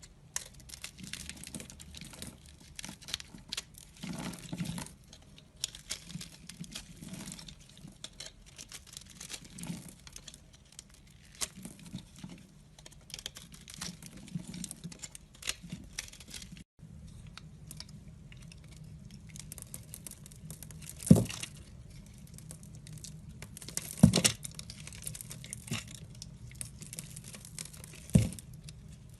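A knife cutting and scraping a bar of soap, with a steady run of fine crackling and crumbling. After a cut, three louder sharp cracks come a few seconds apart.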